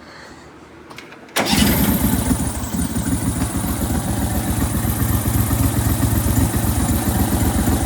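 23hp Briggs & Stratton Vanguard V-twin engine firing up about a second and a half in and settling into a steady, even run. It starts now that the spark wire that had been touching metal and killing the spark is clear.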